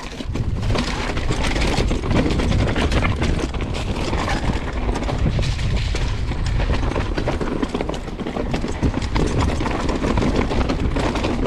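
Downhill mountain bike riding over a rough, rocky trail: continuous rattling and clatter of tyres and bike over rocks and roots, over a steady low rumble, starting abruptly just after the start.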